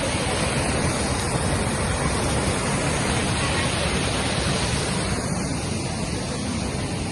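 Waterfall: a steady rush of falling water, loud and even throughout.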